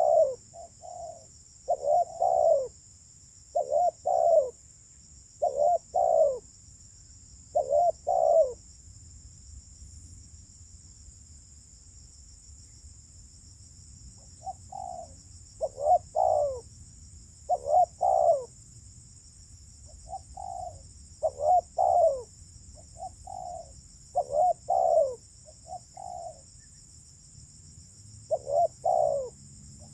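Spotted dove (terkukur) cooing in short repeated phrases about every two seconds, falling silent for about five seconds in the middle before starting again. A steady high insect buzz runs underneath.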